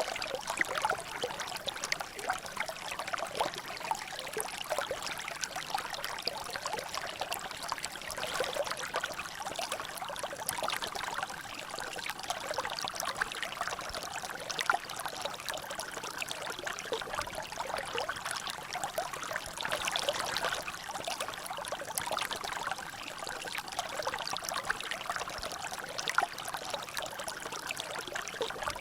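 Water trickling and dripping in a natural drainage: a dense, steady patter of small splashes with no pauses.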